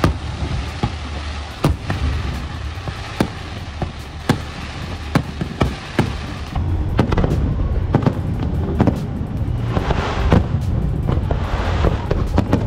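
Fireworks going off: sharp bangs about once a second, turning into denser crackling from about six seconds in, over music with a steady bass.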